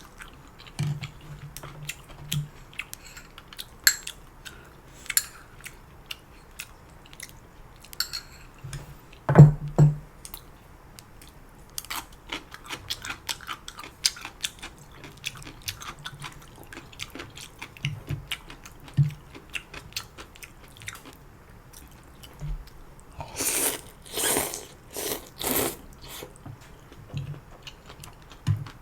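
Close-miked eating of janchi guksu noodle soup: chewing and wet mouth clicks, a loud gulp or slurp about a third of the way in, and four or five loud slurps of noodles in quick succession near the end.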